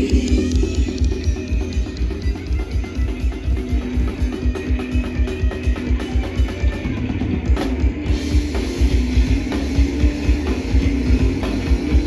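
A crossover thrash band playing live: distorted electric guitar and bass over a drum kit with a fast, steady kick-drum pulse.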